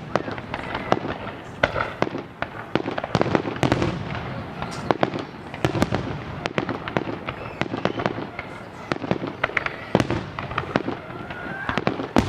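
Fireworks going off: a dense, irregular run of sharp bangs and crackling pops, one after another without a break.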